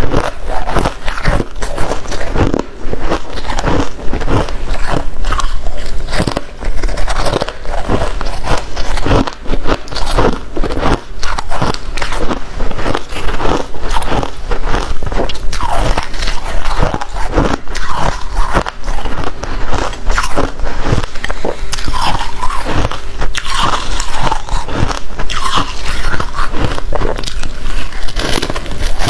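Someone biting and chewing crunchy freezer frost, a dense run of loud, irregular crunches close to the microphone.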